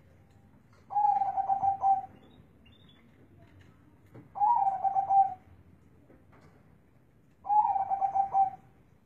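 Zebra dove (perkutut) cooing in a deep, bassy voice: three separate coo phrases of about a second each, roughly three seconds apart.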